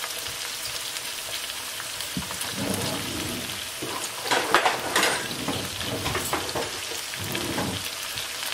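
Tuna steaks, onions and garlic sizzling in oil in a frying pan: a steady hiss, with a few brief louder noises about halfway through.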